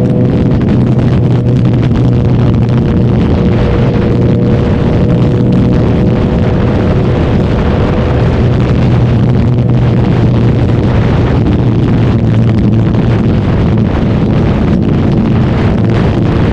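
Suzuki Hayabusa inline-four engine running at a steady speed while riding, with wind rushing over the microphone.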